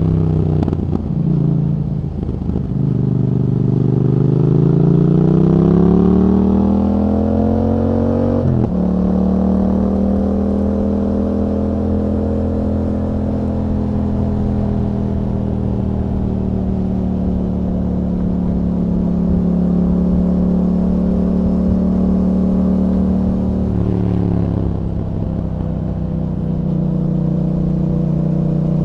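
2021 Yamaha MT-07's 689 cc parallel-twin engine, heard through an Akrapovic exhaust fitted with a dB killer, pulling hard with the revs climbing for several seconds. About eight seconds in the pitch drops sharply at a gear change, and the engine then runs at a fairly steady pitch, with a brief dip and recovery near the end.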